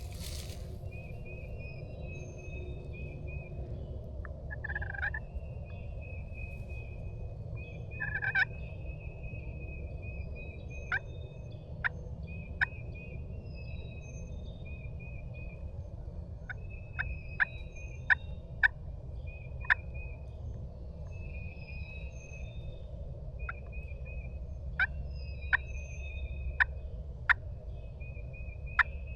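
Wild turkey gobbling in the distance, two short rattling gobbles a few seconds apart, against a steady run of faint, high, repeated call notes. Sharp ticks come several times in the second half, louder than the gobbles.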